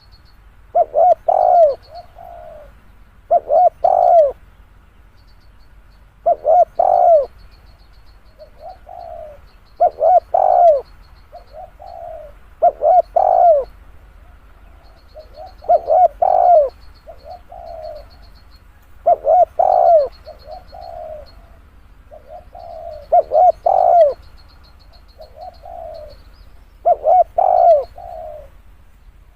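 Spotted dove cooing: a phrase of a few quick coos followed by a softer trailing coo, repeated about every three seconds.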